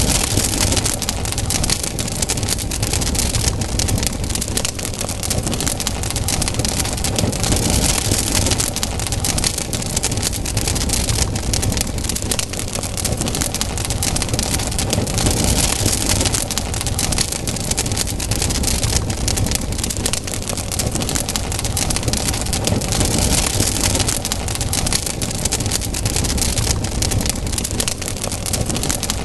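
Campfire burning, with a continuous dense crackle of small pops and snaps from the burning wood.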